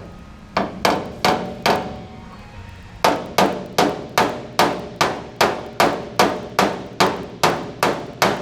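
Hammer tapping on a Ford F-150's bedside panel to work out a dent: four strikes, a short pause, then a steady run of about fourteen strikes at roughly two and a half a second. Each strike rings briefly like sheet metal.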